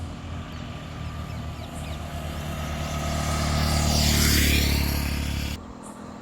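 A motor vehicle's engine running with a steady low hum that grows louder to a peak about four seconds in, along with a swell of road and wind hiss, then cuts off abruptly.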